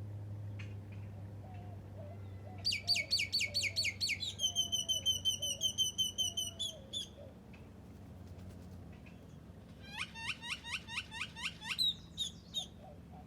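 A songbird singing: a fast run of sharp down-slurred notes about three seconds in that turns into a steady trill, then another fast run of down-slurred notes near ten seconds in. A low steady hum underneath fades out about two-thirds of the way through.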